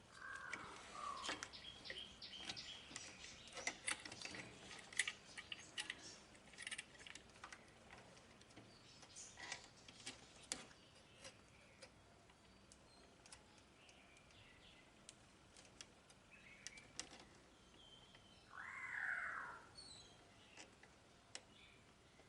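Faint bird calls, including one louder, longer call near the end, over scattered light clicks and taps through the first half.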